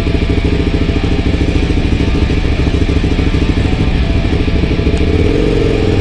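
KTM 990 Super Duke's V-twin engine running, its firing pulses steady and loud; the tone changes about five seconds in.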